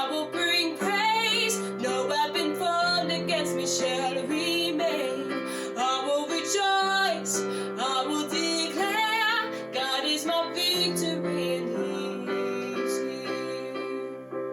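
Worship music: a woman singing wordless lines over strummed acoustic guitar and sustained chords. The singing drops away about ten seconds in, leaving the instruments playing on.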